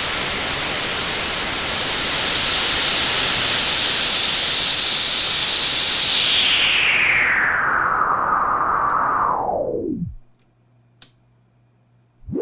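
White noise through the Patching Panda Vibrazum Mk2 multi-band resonant voltage-controlled filter, its resonant cutoff sweeping slowly down until the filter closes completely about ten seconds in. What is left is near silence with a faint hum and a single click, and an upward sweep starts just at the end.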